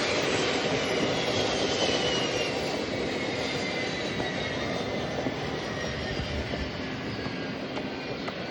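Jet airliner engines passing and slowly fading away: a broad rush with a high whine that slides gradually downward in pitch as the aircraft moves off.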